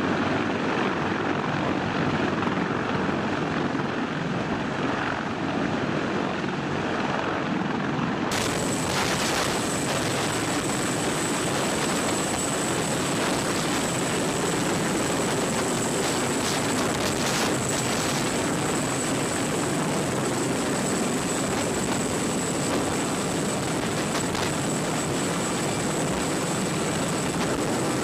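Helicopter in flight: steady rotor and engine noise. About eight seconds in the sound changes abruptly and a thin, high, steady whine runs on through the rest.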